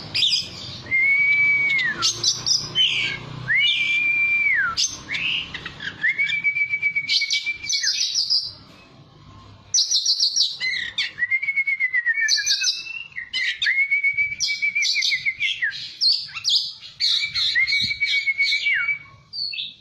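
Oriental magpie-robin (kacer) singing: a series of clear whistled notes, each held level and then falling away, about every two seconds, mixed with quick high chattering notes. The song pauses for about a second and a half near the middle.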